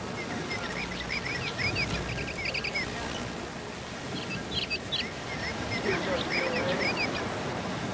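Birds chirping: two bursts of quick, short, high chirps, one in the first few seconds and another in the second half, over steady tape hiss.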